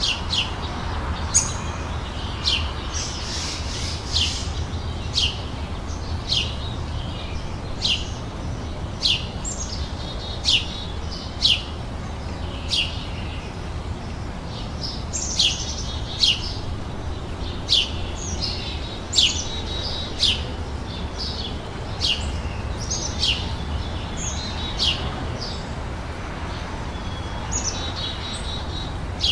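Songbirds chirping outdoors in short, sharp, downward-sweeping chirps repeated about once or twice a second, over a steady low rumble.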